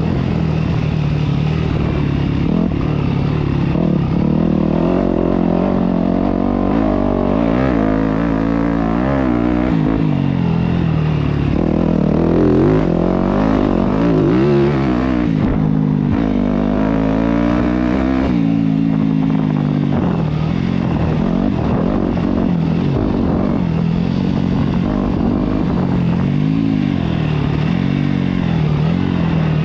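Yamaha YZ250F dirt bike's single-cylinder four-stroke engine running while ridden, its pitch rising and falling repeatedly as the throttle is opened and closed, with the biggest swings near the middle.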